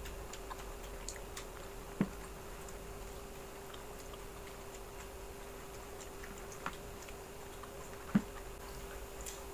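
Quiet eating sounds: faint chewing of fried meatballs with scattered light ticks and two sharper clicks, one about two seconds in and one near the end, over a steady low hum.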